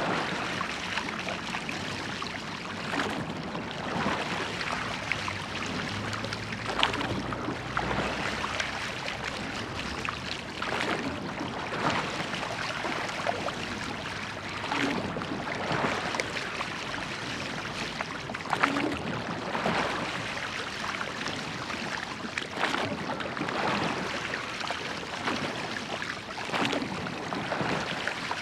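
Oars of a church boat dipping and pulling through river water, with water rushing steadily along the hull and a splash from each stroke every couple of seconds.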